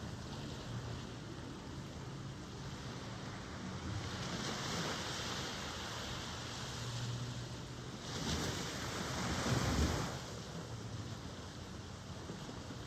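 Ocean surf washing ashore: a steady rush of waves with one swell of breaking water about four seconds in and a louder one about eight seconds in that fades after a couple of seconds.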